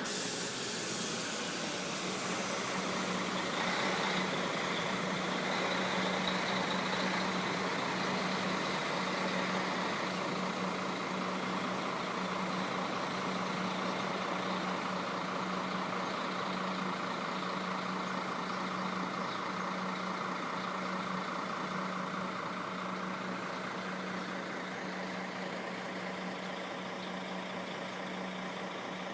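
Diesel coach engine left idling, a steady even drone. There is a short hiss of air about a second in.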